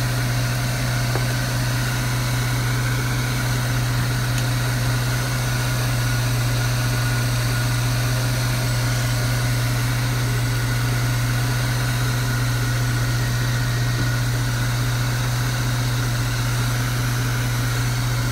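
Truck engine idling steadily with a newly fitted heavy-duty alternator belt, running smoothly with no belt squeal.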